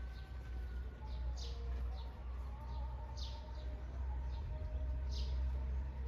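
Birds chirping: short, high chirps that fall in pitch, repeating every half second to a second, over a steady low rumble.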